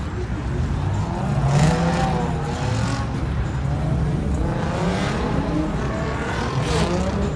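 Car engines running with a heavy low exhaust rumble. Their pitch rises and falls as they are revved, and there are two louder, rougher surges.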